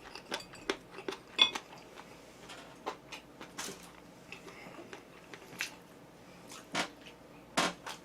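Scattered light clicks and clinks of tableware and food containers being handled, with one sharper ringing clink about a second and a half in.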